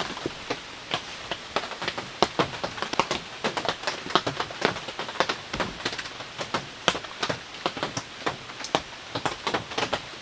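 Heavy rain falling, with big drops striking a nearby surface in a dense, irregular patter over a steady hiss.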